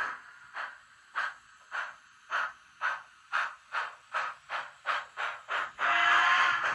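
Steam-locomotive sound decoder in a Kato GS4 model giving exhaust chuffs that come faster and faster as the locomotive pulls away, about a dozen in all, then a steady hiss near the end.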